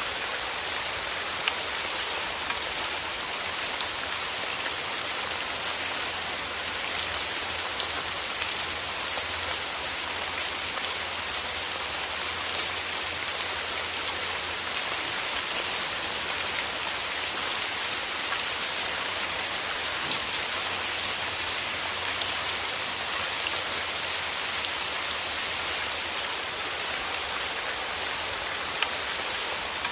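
Steady rain falling: an even hiss sprinkled with many small, close drop ticks.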